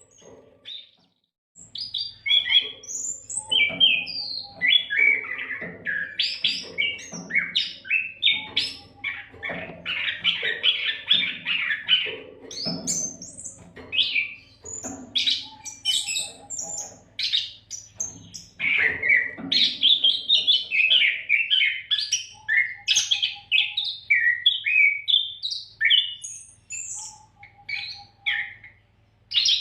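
Oriental magpie-robin (kacer) singing a fast, varied song of whistles, chirps and trills almost without pause, starting about a second and a half in, over a faint low hum.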